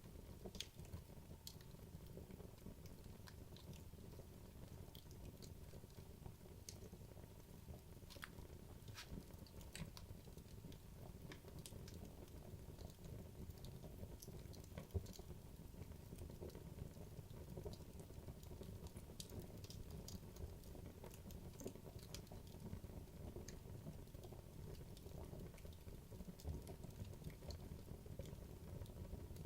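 Wood logs burning in a fireplace: faint, scattered crackles and pops over a low, steady rumble of the fire, with one sharper pop about halfway through.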